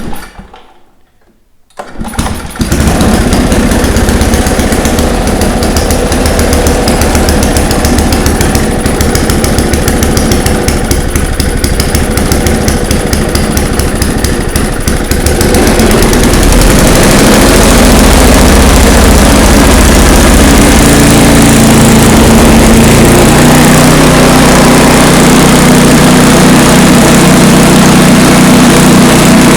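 Toro 421 snowblower's 5 hp Tecumseh engine started cold on choke with the recoil pull cord: it catches about two seconds in and runs loud. About fifteen seconds in it grows louder and steadier.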